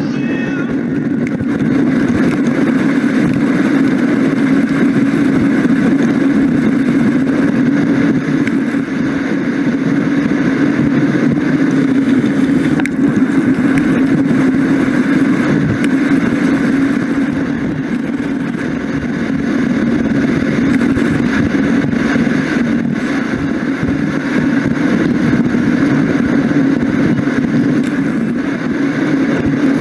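Steady rushing noise of riding a bicycle: wind over the microphone mixed with road noise, running unbroken.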